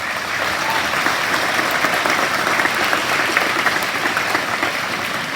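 An audience in a hall applauding steadily, a dense patter of many hands clapping. The clapping tails off slightly near the end.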